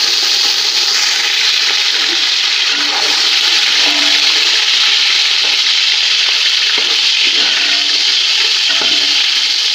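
Chopped tomatoes and green chillies sizzling loudly in hot ghee with browned onions: a steady frying hiss.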